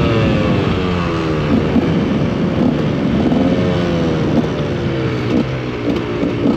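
KTM EXC 125's single-cylinder two-stroke engine with its revs falling as the bike slows. The revs lift and drop briefly about three seconds in, then run low and uneven near the end.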